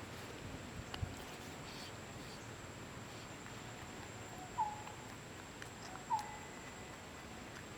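Pet monkey giving two short squeaky calls about a second and a half apart, each dipping slightly in pitch, with a few faint clicks earlier on.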